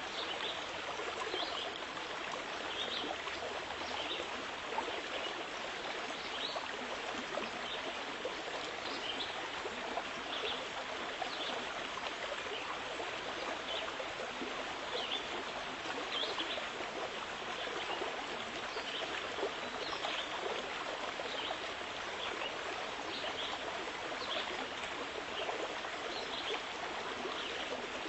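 Steady flowing water of a small stream, an even rushing with many small bright flicks from splashes.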